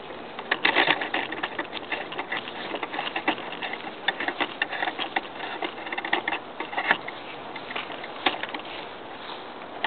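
Footsteps crunching over dry leaves and twigs, a dense run of irregular crackles and snaps, loudest about a second in.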